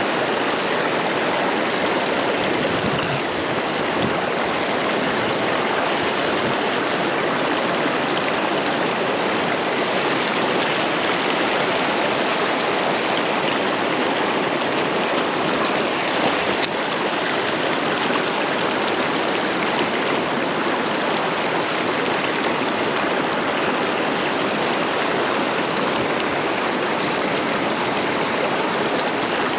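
Steady rush of flowing river water, an even wash of sound with no let-up, broken only by a single brief click a little past halfway.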